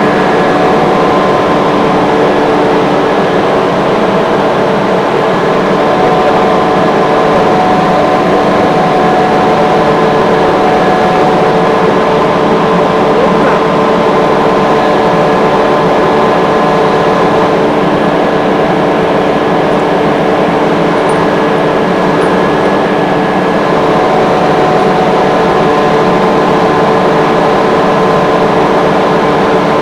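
Industrial rotary screw air compressor running steadily: a loud, even machine noise with several steady tones.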